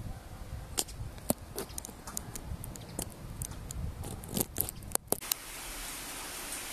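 Irregular sharp clicks and crackles over a low rumble, then, about five seconds in, a steady hiss of light rain falling on wet paving.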